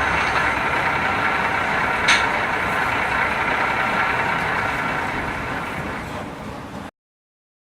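Engine-idling sound of a model Class 153 diesel railcar, running steadily with a short click about two seconds in. It cuts off abruptly about seven seconds in.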